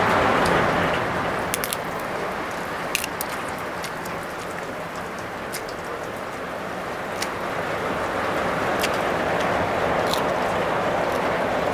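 Heavy rain falling, a steady hiss that eases a little mid-way and builds again near the end. Occasional sharp clicks as raw leafy greens are torn and eaten.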